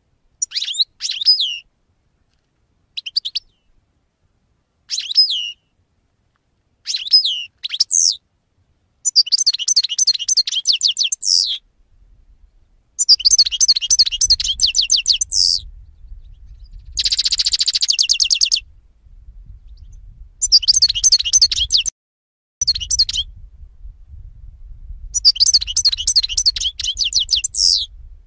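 Pet songbirds singing: short, separate chirping phrases at first, then longer runs of quick high twittering notes, with a rapid trill about seventeen seconds in.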